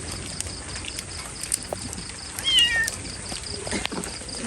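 A kitten meowing once, a high call about two and a half seconds in that falls in pitch at its end, over a steady background hiss.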